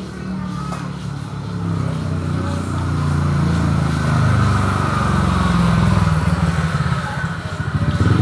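An engine running steadily, getting louder about two to three seconds in and then holding.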